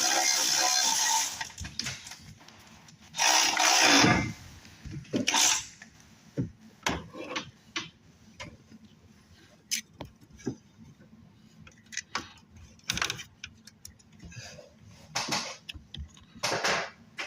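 Clicks and clanks of hand tools working on metal, scattered and irregular, with two louder bursts of noise in the first four seconds, the second ending in a falling sweep.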